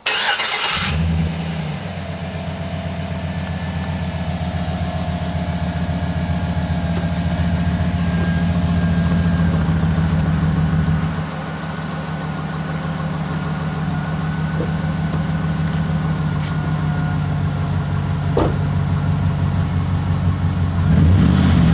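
A GMC Sierra's 5.3-litre V8 starts up through a Borla dual exhaust and settles into a steady, deep idle after a brief flare. The idle eases down a little about eleven seconds in.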